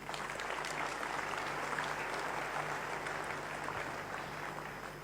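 A congregation clapping. The applause starts abruptly, peaks about two seconds in, then dies away toward the end.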